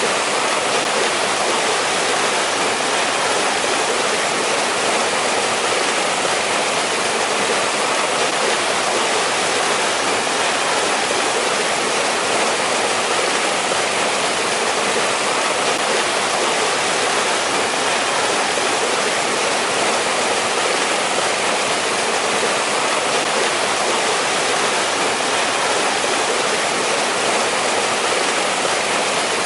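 Mountain-valley stream in winter, water rushing steadily over rocks, with an even, unchanging hiss.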